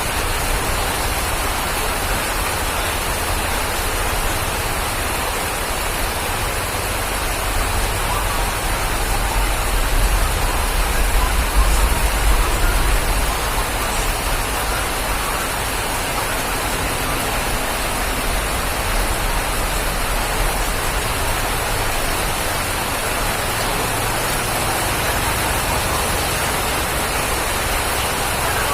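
Steady rain falling, an even hiss without a break, with a low rumble swelling for a few seconds about a third of the way in.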